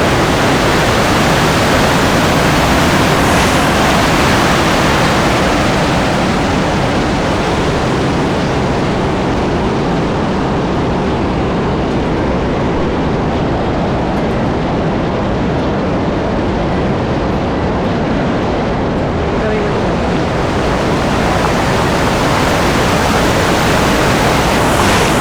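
Steady, loud rush of water from a waterfall.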